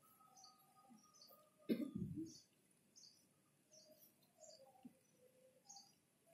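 Small birds chirping, short high notes repeated every half second or so, over a quiet pause. About two seconds in, one brief louder noise, like a cough, stands out.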